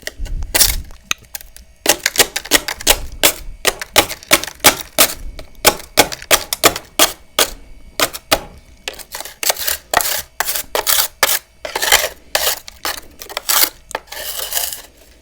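Freezer frost being bitten and chewed: a fast run of crisp crunches, several a second, after a short pause about a second in.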